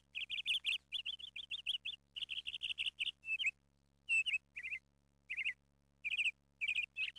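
Small birds chirping: quick runs of short, high chirps that thin out into scattered calls after about four seconds.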